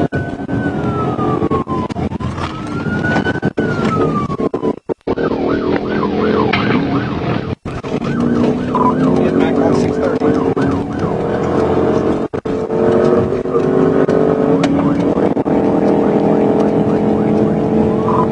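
Police car siren in a slow rising-and-falling wail, switching to a rapid yelp about five seconds in and back to the wail near the end, over the steady drone of the patrol car's engine at speed. The sound drops out briefly a few times.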